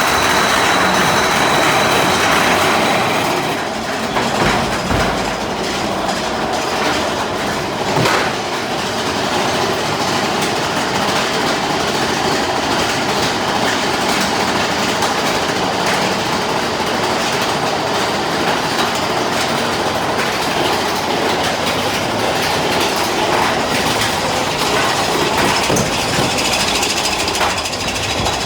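Mine-train roller coaster cars rolling and rattling along their steel track, heard from on board, with a steady clattering rumble and an occasional sharp knock, one clear one about eight seconds in.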